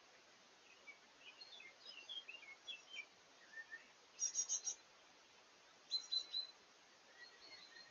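Faint songbirds singing in woodland over a steady hiss: a run of short warbling high notes, then two louder bursts of four quick notes each, about a second and a half apart, before the warbling picks up again near the end.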